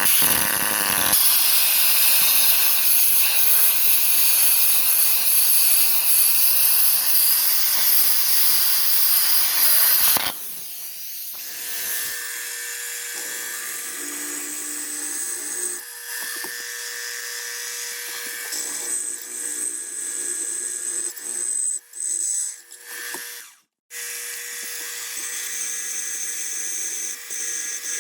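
Power tool cutting a steel tab off a bracket. The first ten seconds are a loud, harsh cut. After that the tool runs more quietly with a steady whine, breaking off briefly twice near the end.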